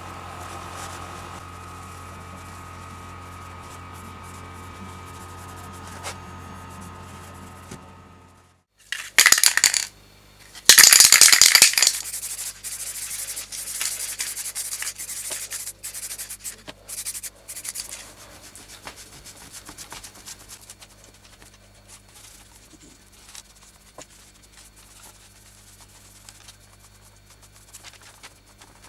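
Workshop sounds: a motor hums steadily and stops about eight seconds in. Two loud bursts of hiss follow, then scattered rubbing and light clicks of hand work on parts.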